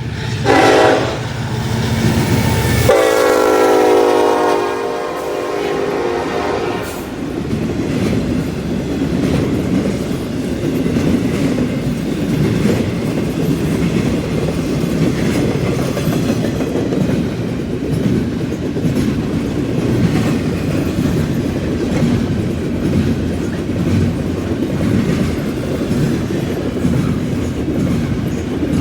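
CN freight train passing: its diesel locomotive horn sounds briefly just after the start, then again for about three and a half seconds from three seconds in. After that comes the steady rumble of the locomotives and freight cars rolling by, with wheels clacking in a steady rhythm over rail joints and the junction switch.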